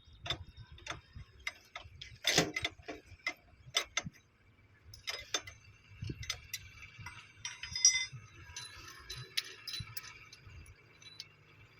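Irregular sharp metallic clicks and knocks, a dozen or so at uneven spacing, the loudest about two seconds in and again near eight seconds, over a faint low hum.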